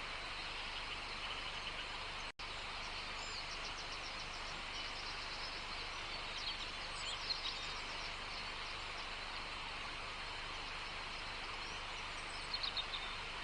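Wild birds chirping in short runs of quick repeated notes over a steady outdoor hiss. The sound cuts out completely for an instant about two seconds in.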